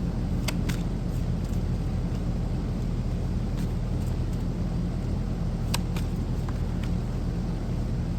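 Steady low hum, with a few short, sharp clicks scattered through it.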